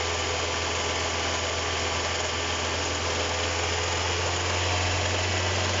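Kia Cerato engine idling steadily with a grinding from its alternator. The grinding comes from a broken alternator bearing, which makes the alternator vibrate and sounds like an engine knock.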